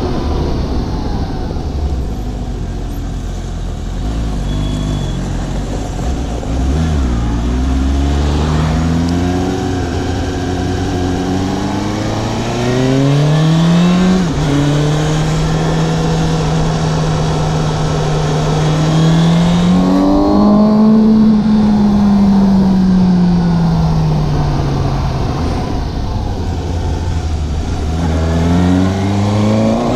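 Suzuki GSX750 motorcycle engine on the move. It revs up through several gears, holds a steady cruise, rises briefly, then eases off in a long slow fall and pulls away again near the end, over steady wind rush.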